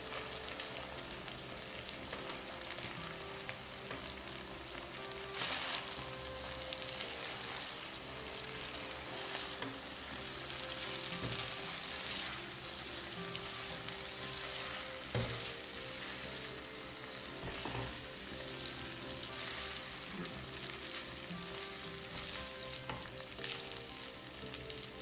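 Spaghetti and shrimp sizzling in a hot nonstick frying pan while being tossed with tongs, with a steady frying hiss and a few sharp knocks of the tongs against the pan.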